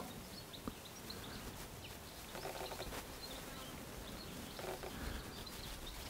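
Small birds giving short, high chirps scattered throughout, over a faint steady outdoor hiss.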